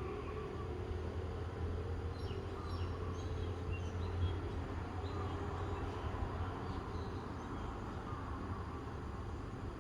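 Outdoor morning ambience: a few faint, short bird chirps over a steady low rumble.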